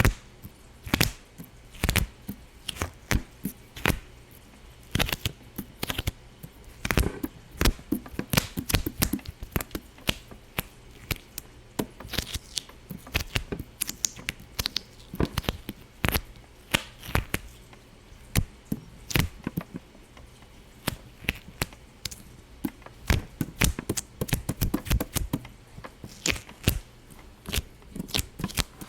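Irregular sharp pops and cracks, several a second at uneven spacing, some much louder than others.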